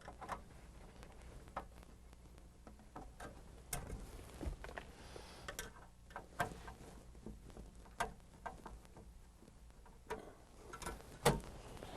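Faint, irregular small clicks and taps of a hand tool working the screws at the front of a sunroof assembly as they are removed.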